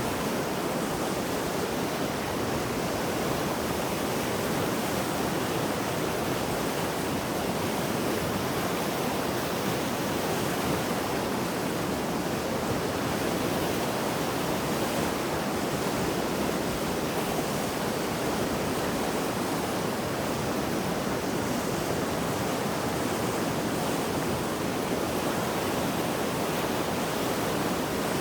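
Mountain river running high and fast after heavy rain, a steady, even rush of turbulent floodwater.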